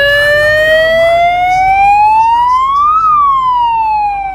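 A siren wailing: one tone climbing steadily for about three seconds, then falling.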